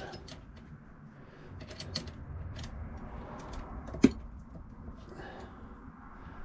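Hand work on a metal safe key: scattered light clicks and scraping, with one sharper click about four seconds in.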